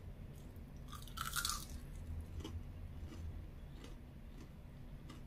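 Chewing crispy fried chicken, with a burst of crunching about a second in and soft chewing clicks after it.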